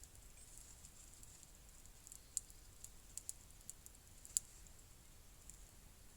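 Small wood fire crackling: scattered, irregular sharp pops and clicks over a faint steady hiss, two pops louder than the rest.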